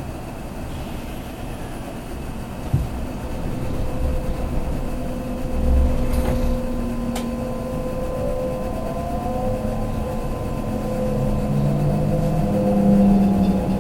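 Kintetsu limited express train heard from inside as it gathers speed after leaving a station: steady running rumble from the wheels and rails, a few sharp clicks, and electric motor whine rising in pitch through the second half, growing louder.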